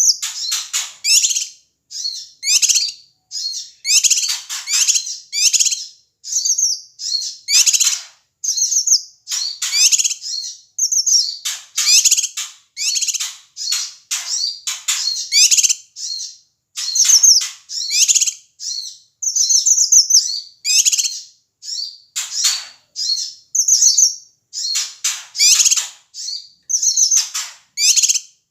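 Male cucak kinoi calling noisily in its agitated, panicky call: rapid, high chattering phrases, one burst about every half-second to second with short gaps between. This is the call that keepers play to provoke other songbirds into calling.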